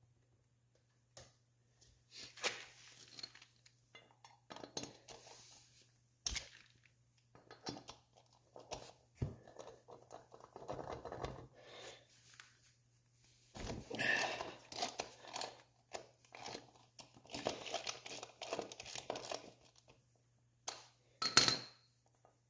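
Hand tools clicking and clattering as the three 12 mm bolts holding the front brake rotor of an ATC250R three-wheeler are loosened and removed. The irregular clicks and short scraping stretches are overlaid by a faint steady hum, and the sharpest strike comes near the end.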